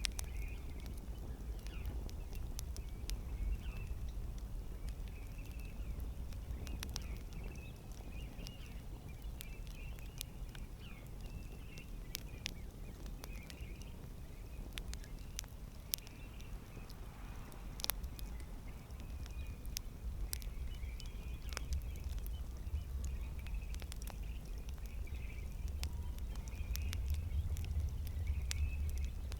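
Campfire crackling: irregular sharp pops and snaps over the low rumble of the burning fire, with a faint wavering high whistle throughout.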